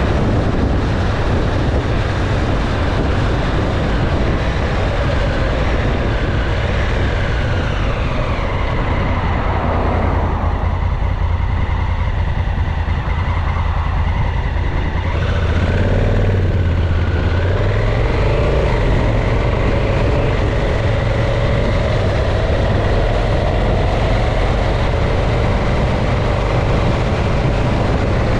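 Onboard sound of a motorcycle being ridden: the engine running under a steady rush of wind noise. About a third of the way in the engine note falls as the bike slows, then it climbs again as the bike accelerates away.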